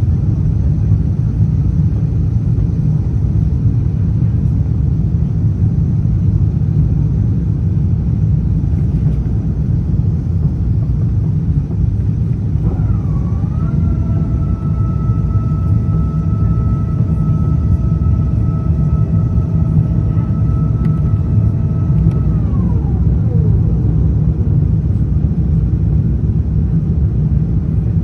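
Steady low rumble of airflow and engines inside an Airbus A350-900 cabin. About halfway through, a mechanical whine with several overtones starts, holds a steady pitch for about ten seconds, then falls in pitch and dies away.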